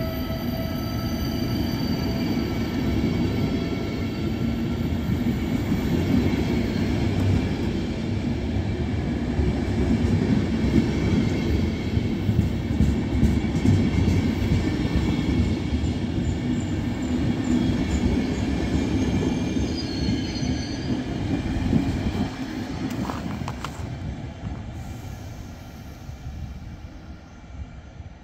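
Passenger coaches of a departing loco-hauled intercity train rolling past along the platform: a steady rumble of wheels on rail, with a thin wheel squeal in the first few seconds. The rumble fades away over the last several seconds as the train pulls out.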